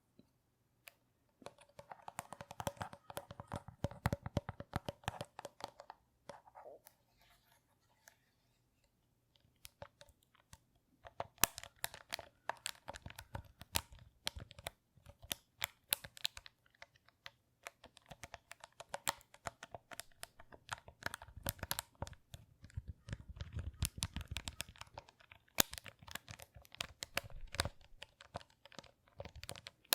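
Close crinkling and crackling: many small, sharp crackles in quick, irregular runs, with a quiet pause of a few seconds near the first third.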